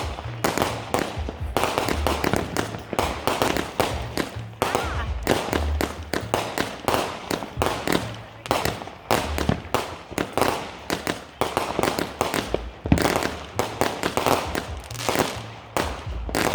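Consumer fireworks going off in quick succession, a dense string of sharp bangs and crackles, several a second, without pause.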